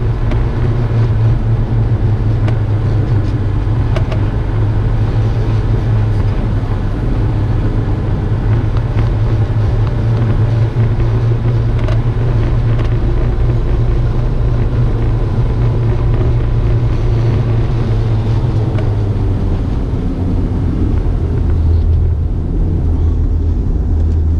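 Car driving on the road, its engine and tyre noise a steady low drone. Near the end the engine note drops lower.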